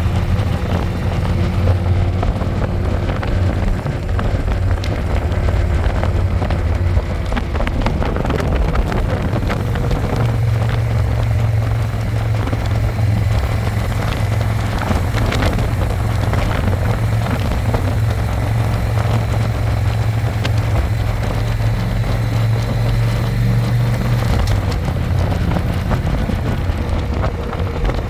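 Harley-Davidson Electra Glide's V-twin engine running steadily while under way, heard from the passenger seat. The engine note changes about ten seconds in and again near the end.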